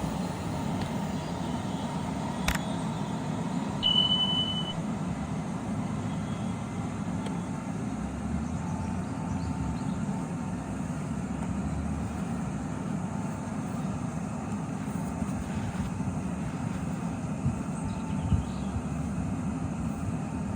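Steady low rumble of a train at the station, with a short high beep about four seconds in.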